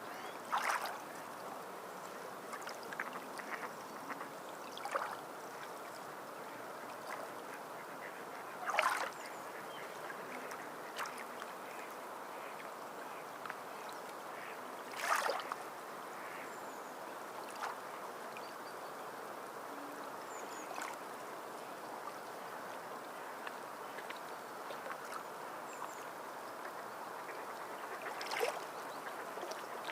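Steady sound of moving water, broken every few seconds by short sharp splashes or calls, the loudest about nine and fifteen seconds in.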